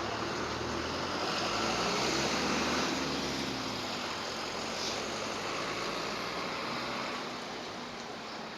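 A distant engine passing by over steady outdoor background noise, its low hum swelling to its loudest about two to three seconds in and then fading away. A brief high chirp comes about five seconds in.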